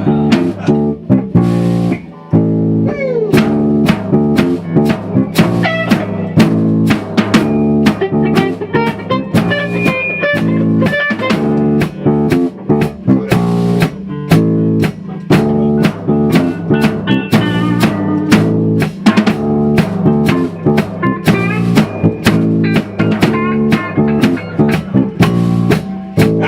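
A band playing an instrumental passage: guitar and bass over a drum kit keeping a steady beat, with no singing.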